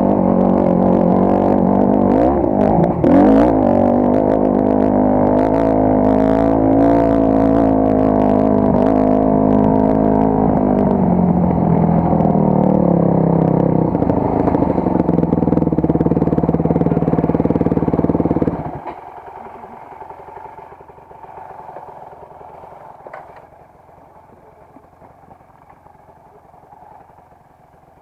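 Motorcycle engine running at fairly steady low revs, with a brief wobble of throttle a few seconds in. It cuts off abruptly about two-thirds of the way through, as if switched off, leaving only faint background noise.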